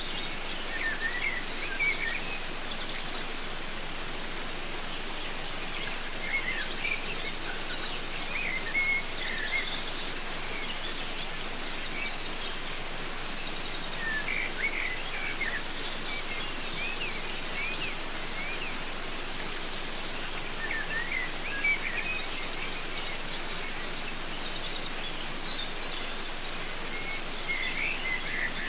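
Steady rush of a waterfall, with birds calling over it in short chirping phrases that come and go every few seconds.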